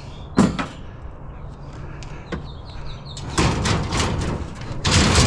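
Scrap items being handled and shifted: a sharp knock about half a second in, then a run of clattering and rattling from about three seconds in, loudest near the end.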